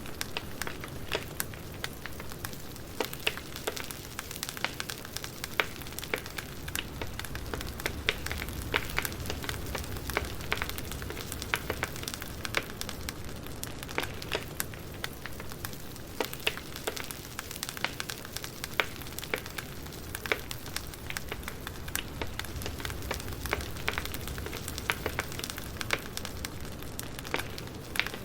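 Burning firewood crackling: dense, irregular pops and snaps over a steady low rumble and hiss.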